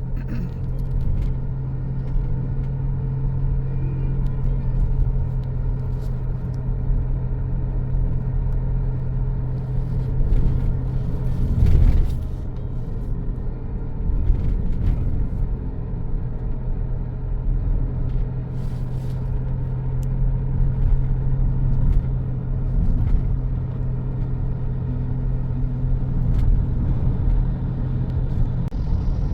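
Steady low rumble and hum of a road vehicle's engine and tyres, as heard from inside a moving vehicle, with a brief louder surge about twelve seconds in.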